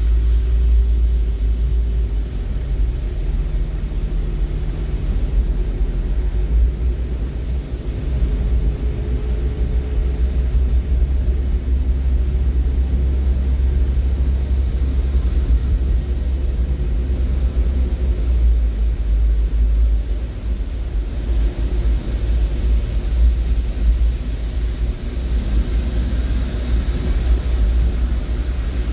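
Steady low rumble of a vehicle in motion, with a faint drifting hum above it.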